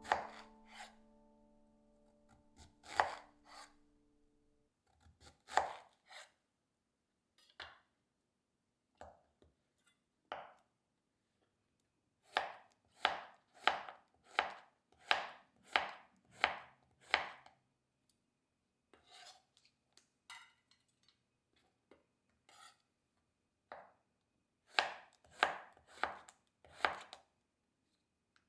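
Knife chopping food on a cutting board, in separate sharp strokes. The strokes are scattered at first, then come in a quick run of about two a second through the middle and again near the end.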